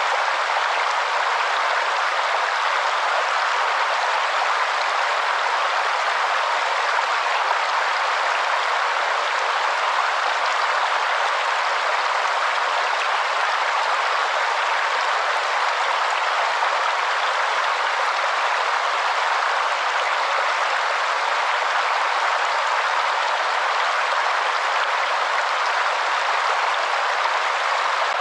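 Waterfall: a steady, even rush of falling water with no low rumble.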